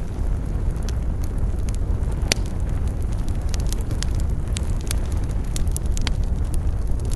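Fire burning in a fireplace: a steady low rumble of flames with frequent sharp crackles and pops at irregular intervals, one louder pop about two seconds in.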